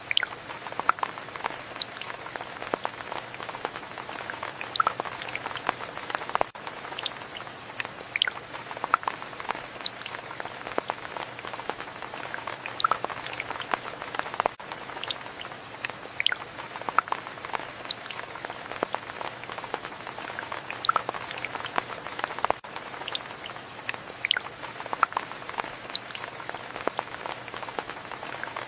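Steady rain with many separate drops ticking close by over a soft hiss. The same short stretch of rain repeats about every eight seconds.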